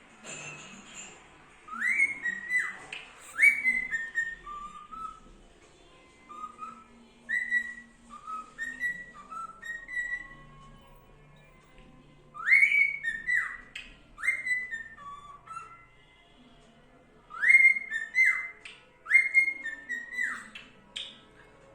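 Cockatiel whistling a repeated tune: short phrases of clear notes, each swooping up and then stepping down, in four bursts with pauses between.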